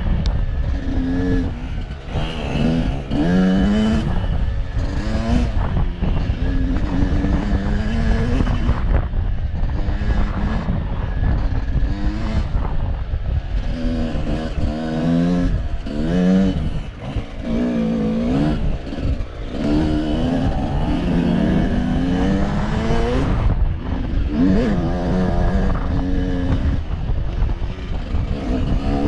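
Off-road vehicle engine revving up and down repeatedly while riding, over a constant heavy low rumble.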